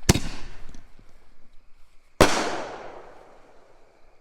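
Consumer willow artillery shell fired from a mortar tube: a sharp bang as it launches, then about two seconds later a louder bang as the shell breaks, with a long echoing tail that fades out.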